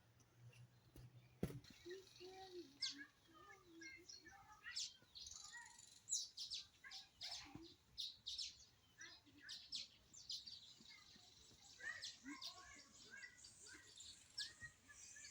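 Faint birdsong: several wild birds chirping with many short, high calls and quick pitch sweeps, plus a single sharp click about a second and a half in.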